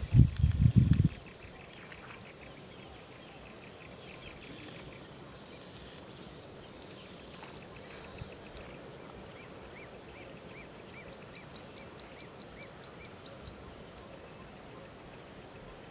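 Wild small birds calling in rapid runs of short repeated chirps and ticks over a faint steady background, with a few loud low thumps in the first second.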